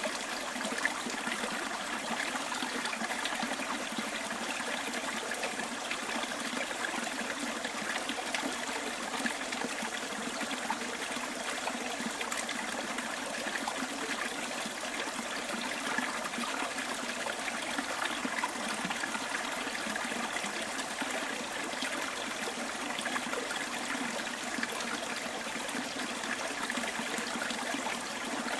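Small bush stream trickling and babbling over stones, a steady rush of water with constant small splashes.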